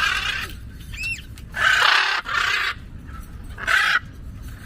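A parrot squawking: several loud, harsh screeches, with one short whistled note about a second in.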